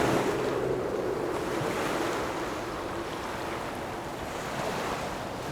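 Sea waves and rushing water with wind buffeting the microphone, an even hiss that slowly fades.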